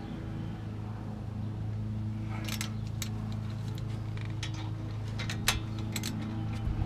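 Metal clinks and taps of hand tools and brake caliper hardware being worked, several sharp clicks in the second half, over a steady low hum.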